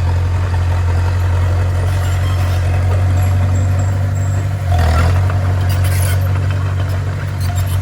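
Heavy diesel engine of a bulldozer running steadily with a deep low drone, swelling briefly louder about five seconds in.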